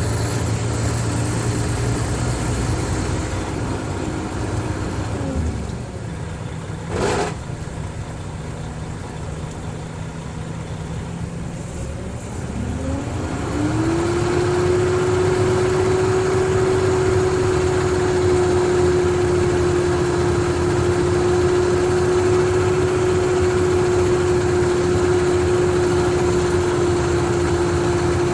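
Mercedes-Benz O500RSD coach's diesel engine running: its speed falls off about four seconds in, a single knock sounds about seven seconds in, then about halfway through the engine speed climbs and holds steady and louder.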